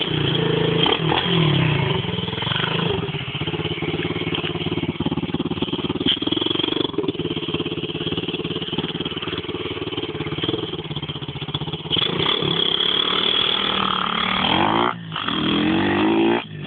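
125cc pit bike's single-cylinder four-stroke engine running steadily. Near the end the revs climb sharply, dip for a moment and climb again.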